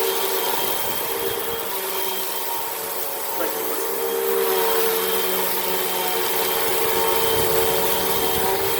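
Hoover vacuum cleaner running steadily, its motor giving a constant hum and whine over a rush of airflow, the pitch dipping briefly about three and a half seconds in.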